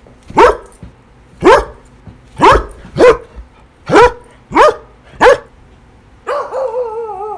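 A dog barking: seven short, loud barks at an uneven pace, then a longer cry that wavers in pitch near the end.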